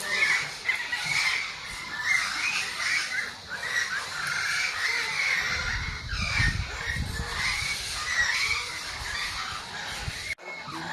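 A flock of captive parrots calling all at once, a dense chorus of overlapping calls with no break.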